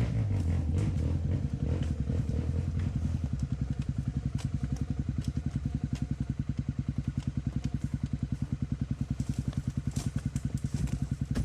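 Trail motorcycle engine running, then settling about three seconds in to a steady idle with a fast, even putter. Faint clicks are heard over it.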